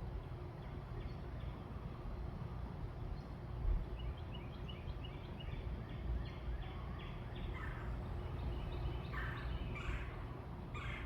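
A bird calling: a rapid run of short, quick notes, then a few louder, harsher calls, over a steady low rumble of outdoor background noise.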